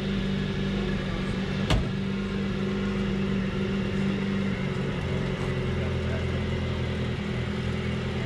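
Box truck engine running at idle, with one sharp click or knock about two seconds in; the engine's note shifts lower about halfway through.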